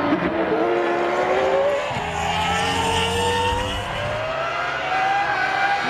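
Formula One cars' 3.0-litre V10 engines running at high revs. The engine note dips at first, then climbs steadily, with several engines sounding together.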